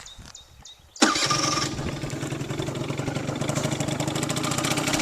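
Air-cooled two-stroke engine of a Peugeot Speedfight 3 scooter with a LeoVince Touring exhaust starting about a second in, then idling steadily. The carburettor is rejetted, up from a 54 to a 60 main jet.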